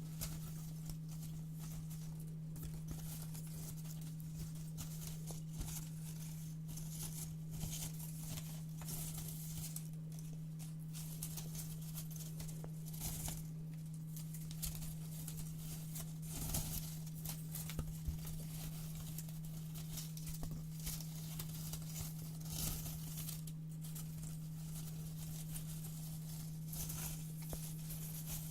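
Scissors cutting brown paper in repeated crisp snips, with the paper rustling as it is handled, over a steady low hum.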